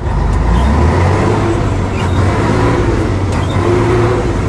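Scania 113H truck's turbocharged inline-six diesel engine running loud under load, its pitch changing as gears are shifted, with a steady whine on top.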